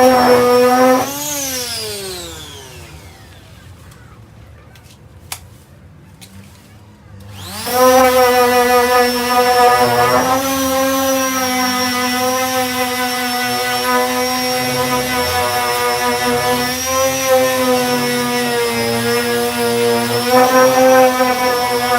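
Electric sander with a 240-grit disc running, switched off about a second in and winding down in falling pitch, then a few seconds of quiet with a couple of clicks. It spins back up in rising pitch and runs steadily on while sanding body filler.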